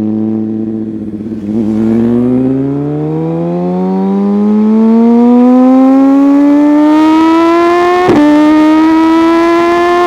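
Sport motorcycle engine accelerating hard, its pitch climbing steadily, with a quick upshift about eight seconds in and another right at the end.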